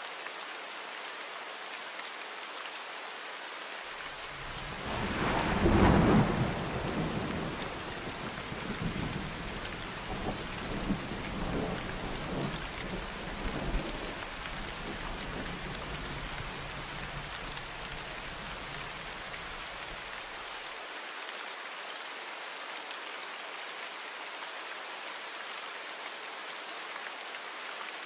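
Steady rain with a clap of thunder about five seconds in, rolling on in rumbles and crackles and dying away by about twenty seconds.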